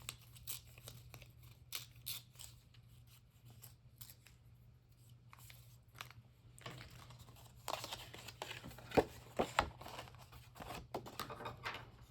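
Scissors snipping magazine paper in a string of short, sharp cuts with paper rustling between them, busiest and loudest from about seven to ten seconds in, over a low steady hum.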